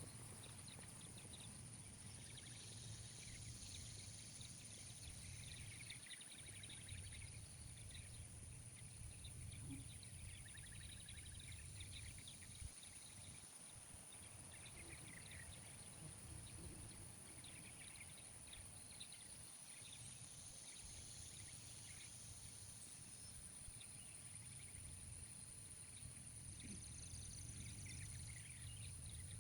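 Faint outdoor ambience: scattered faint bird chirps over a steady low rumble and a thin, steady high-pitched whine.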